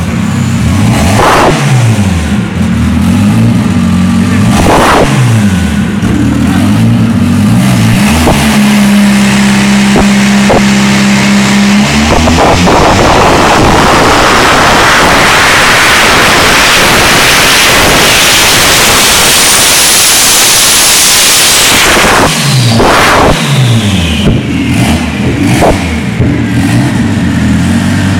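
Methanol-fuelled, turbocharged Ford Escort Cosworth four-cylinder engine on a chassis dyno, revved in quick blips, then held at a steady speed for a few seconds. It then runs a long rising full-throttle pull lasting about ten seconds that cuts off suddenly, followed by more quick revs.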